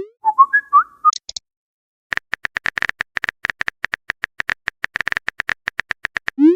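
Phone-chat sound effects: a rising pop, a short run of chirpy electronic blips, then a rapid run of phone keyboard typing clicks, about nine a second for roughly four seconds, ending in another rising pop as a message is sent.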